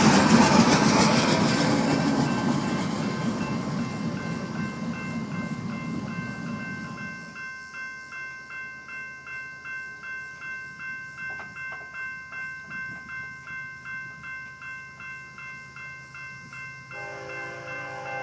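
Freight train rumbling past and fading away over the first several seconds, followed by a railroad crossing bell ringing steadily at about two to three strokes a second. Near the end the ringing changes to a lower set of steady tones.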